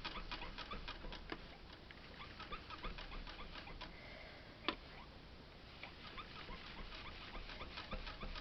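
Faint, irregular small taps and scratches of a blending brush working distress oxide ink onto cardstock, several a second, with one sharper tap about halfway through.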